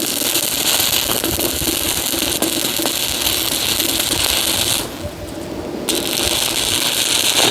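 Electric arc welding: a steady dense crackle and sizzle from the arc. It stops for about a second near five seconds in, then strikes again and runs on.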